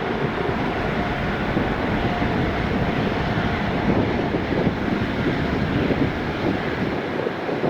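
Boeing 777-300ER's GE90 turbofan engines at close range, a loud, steady rush of jet noise.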